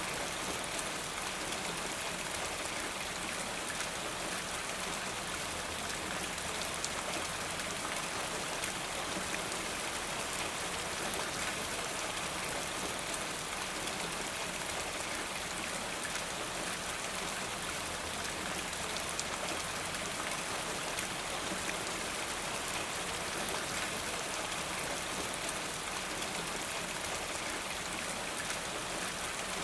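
Steady rain falling: an even, unchanging hiss dotted with countless small drop hits.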